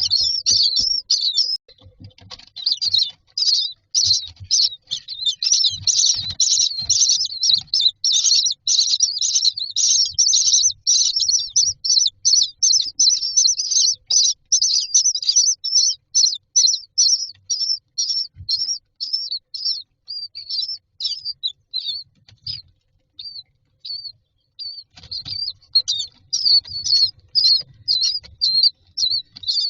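Common myna chicks giving rapid, high-pitched begging chirps, several a second. The chirping thins out past the middle and picks up again near the end, with soft low bumps underneath.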